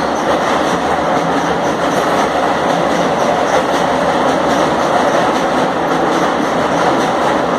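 Blue Indian Railways passenger coaches rolling over a steel girder bridge: a loud, steady rumble of train wheels on the rails and bridge deck.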